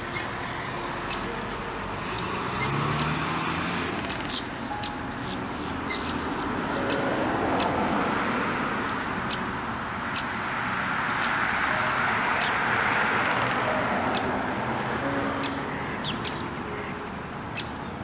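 Many short, high bird chirps scattered through a steady hiss of outdoor background noise that swells and fades slowly.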